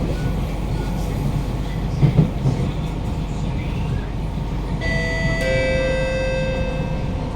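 Steady running rumble inside a Kawasaki–CRRC Qingdao Sifang C151A metro train car, with a brief knock from the wheels about two seconds in. About five seconds in, an electronic chime sounds in two steps, a higher note then a lower one, ringing for about two seconds.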